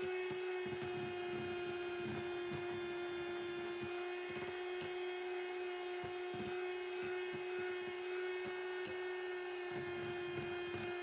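Electric hand mixer running at a steady speed, whipping egg whites and sugar into meringue, with a steady motor hum and an uneven low rattle from the beaters in the bowl.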